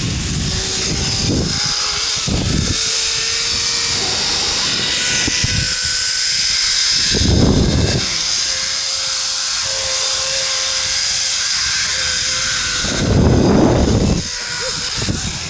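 Zip line trolley pulleys running along the steel cable: a steady high whir with faint steady tones in it, broken by several short gusts of wind buffeting the microphone. The sound drops away at the very end.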